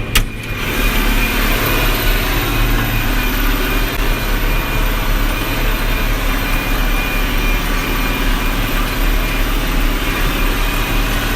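Tractor engine running steadily, heard from inside the cab. A sharp click of the cab door latch comes just after the start, and the engine then sounds louder and brighter with the door open. A faint steady high whine runs under it.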